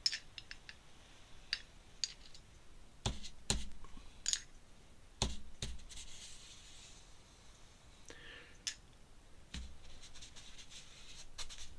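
Drawing tools being handled and set down on a desk: scattered light clicks and taps, a few duller knocks, and a soft scratchy pen stroke on paper around the middle, as a frame is drawn around an ink drawing.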